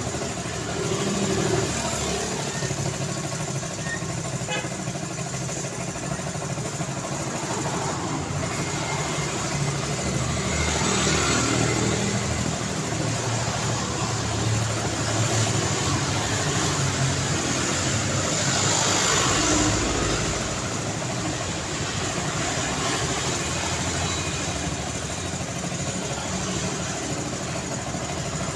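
Road traffic ambience: continuous engine and tyre noise from passing vehicles, swelling louder as vehicles go by about a third and about two-thirds of the way through.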